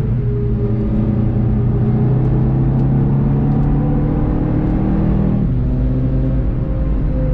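VW Golf 7.5 GTI TCR's turbocharged 2.0-litre four-cylinder engine pulling hard at track speed, heard from inside the cabin. Its note climbs slowly, changes with a gear change about five seconds in, then climbs again.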